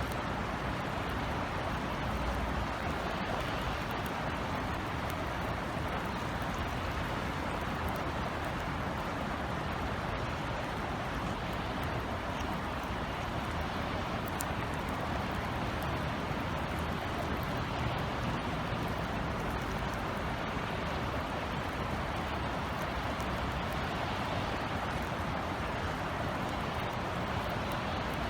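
Steady summer drizzle falling as an even hiss, with a low rumble of city traffic underneath and a few faint drip ticks.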